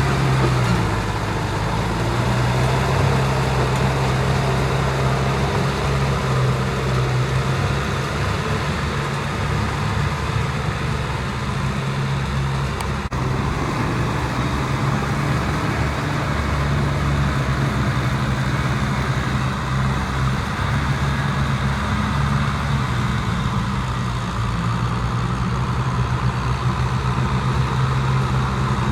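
Kubota M6040SU tractor's diesel engine running steadily while working a field, with a constant low engine note and only slight changes in engine speed.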